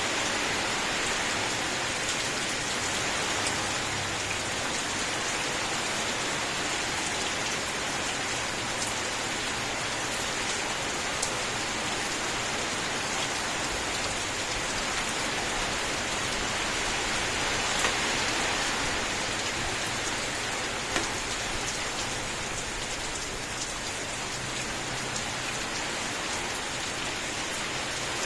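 Steady rain falling, with a few sharper drop ticks standing out now and then, two of them louder past the middle.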